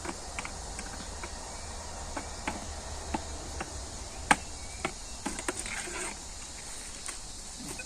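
Steady high chirring of insects, with irregular clicks and scrapes of a hand tool digging in soil and stones; one sharper knock about four seconds in.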